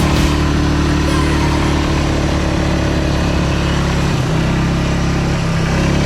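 Motorbike engine running at steady revs, its pitch shifting slightly about four seconds in.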